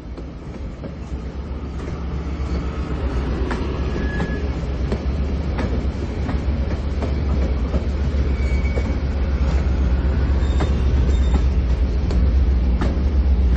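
Passenger coaches of an excursion train rolling past at close range: a low rumble and rattle that grows steadily louder, with wheels clicking over the rail joints and a few brief, faint wheel squeals.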